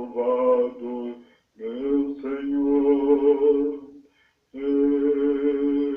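Singing voices holding long sustained notes in two-part harmony, in three phrases with two brief breaks between them.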